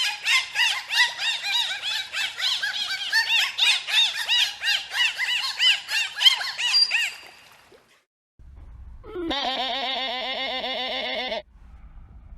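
A chorus of many small animals giving rapid, overlapping high squeaky chirps, several a second, for about seven seconds. After a short pause comes one wavering bleat of about two seconds over a low rumble.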